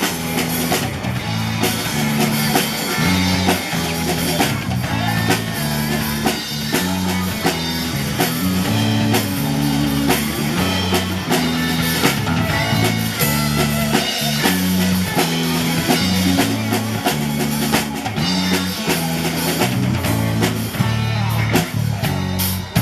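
Band playing rock-style music with a drum kit, guitar and a stepping bass line.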